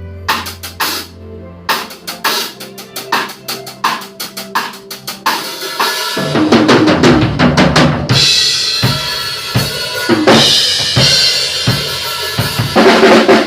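Drum kit played during a sound check: quick separate snare and tom strokes for the first half, then a fuller, louder beat with kick drum and cymbals.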